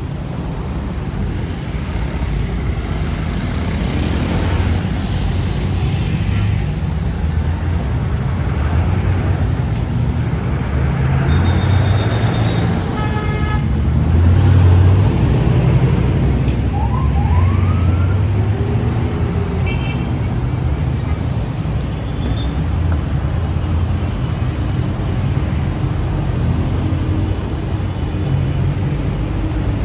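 Steady city road traffic: the engines and tyres of passing vehicles make a continuous low rumble. A few brief high chirps and short rising whistles sound over it near the middle.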